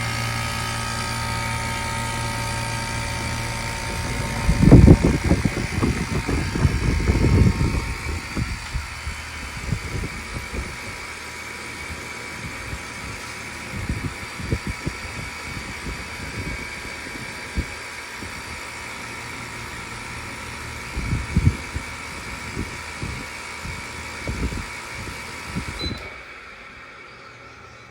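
1993 Mitsubishi Kirigamine outdoor unit (MUH-K223), outer cover removed, running in cooling mode with a steady machine whine and low hum. The low hum drops away about four seconds in, irregular low thuds and rumbles follow, and the remaining whine cuts off suddenly near the end as the unit shuts down.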